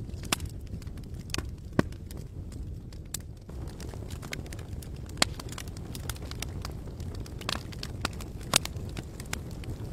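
Wood campfire crackling, with irregular sharp pops scattered through it, the loudest a few seconds apart, over a steady low rumble.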